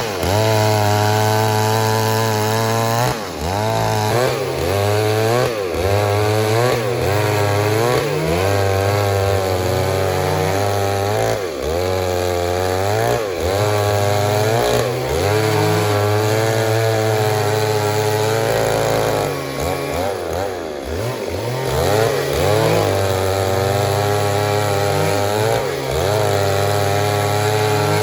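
Stihl MS 382 two-stroke chainsaw cutting wood at high revs, the engine note sagging and recovering every second or two as the chain bites into the cut, with a longer dip about two-thirds of the way through.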